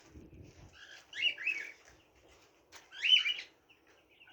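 Small birds chirping in two short bursts of quick high notes, one about a second in and one about three seconds in. A few soft low knocks come at the very start.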